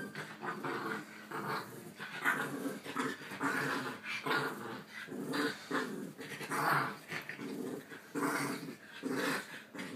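Two dogs growling at each other in short, rapid, repeated bursts as they play-fight.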